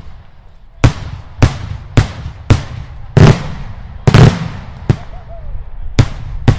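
Daylight fireworks: a rapid run of loud aerial shell bangs, about nine in a few seconds at uneven spacing, each trailing off in a rolling echo.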